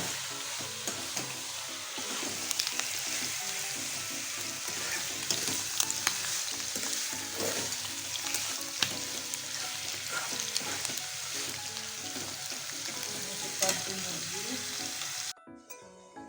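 Hot oil sizzling and crackling around chicken diamond pieces frying in a pan, with occasional sharp clicks, still going just after the gas burner has been turned off. The sizzling cuts off suddenly about fifteen seconds in.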